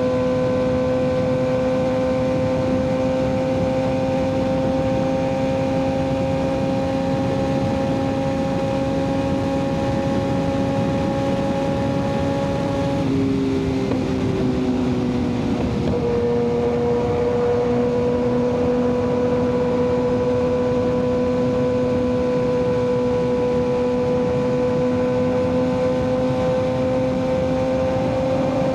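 Kawasaki ZX-6R 636 inline-four with an aftermarket M4 exhaust running under way at steady road speed, its note creeping slowly up in pitch. About halfway it dips lower for a few seconds, then climbs slowly again, with wind rush underneath.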